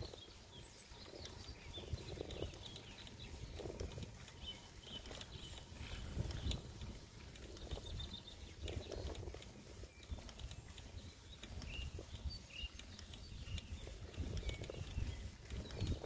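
Small songbirds chirping and twittering in short scattered calls, over a steady low rumble from riding along on the bicycle.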